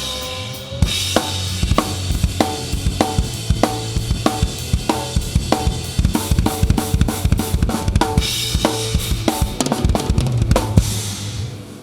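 Rock drum kit played up close, with steady kick and snare strikes and cymbal crashes, over sustained bass and the rest of the band. The music stops near the end as the song finishes.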